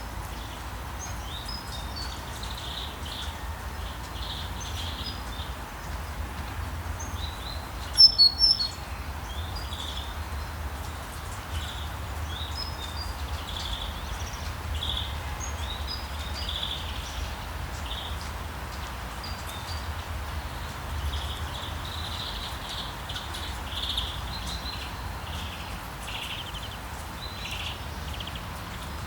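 Steady rain with many small birds chirping over it throughout. A short, louder cluster of sharp high calls comes about eight seconds in.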